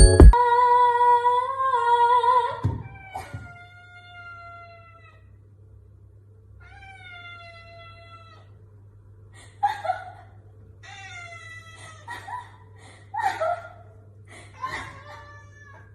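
A cat meowing again and again: one long, loud meow first, then a series of shorter, quieter meows, over a low steady hum.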